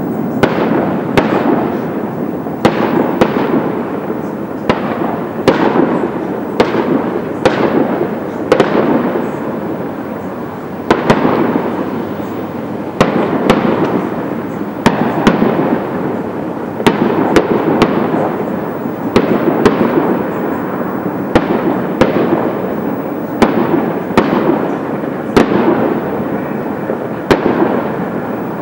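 Fireworks display of fanned comet shots firing in rapid succession: sharp bangs about once or twice a second over a continuous rushing, crackling noise.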